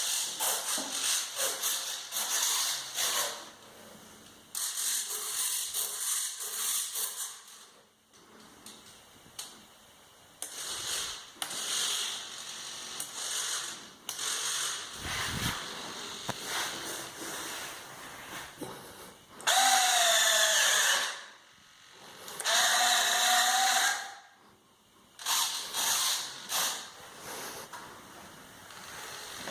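Electric motors of an RC Boeing 737 model run up in a series of short bursts, with a mechanical whirring buzz. Two longer bursts near 20 and 23 seconds in carry a clear whine that rises in pitch and then holds before cutting off.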